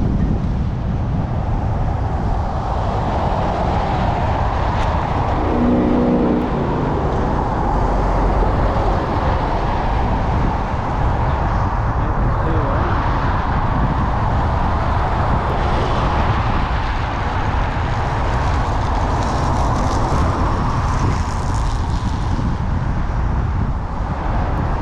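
Steady wind rush on the microphone and rolling noise from an e-bike being ridden, with a short pitched tone about six seconds in.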